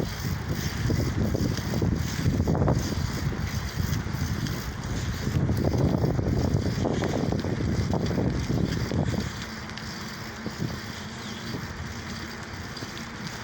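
Wind buffeting the phone's microphone during a bicycle ride: an uneven low rumble that eases off about nine seconds in.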